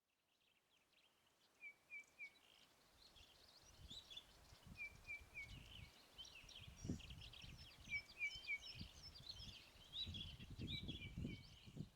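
Faint birdsong fading in: a busy mix of chirps and whistles, with a quick set of three short notes recurring three times. Low rumbles come in about seven seconds in and again near the end.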